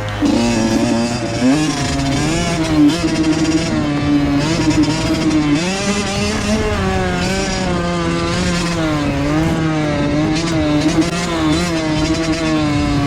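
Honda CR85 85cc two-stroke single-cylinder dirt bike engine under riding load, its pitch rising and falling as the throttle is opened and closed, climbing to a higher held pitch about six seconds in.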